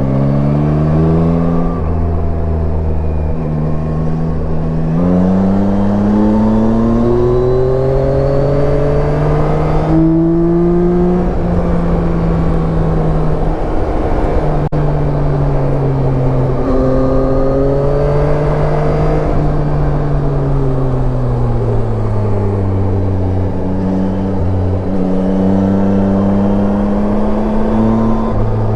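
Yamaha Tracer 9's 890 cc inline-three engine pulling on the road. Its pitch climbs, drops sharply at a shift about ten seconds in, falls and rises again as the throttle is eased and reopened, and climbs once more near the end. Steady wind and road noise runs under it.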